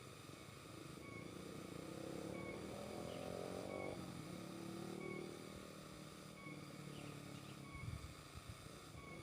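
A passing motor vehicle's engine, faint, rising in pitch and then falling away as it goes by. Faint short high chirps repeat about once a second, and there is a low thump near the end.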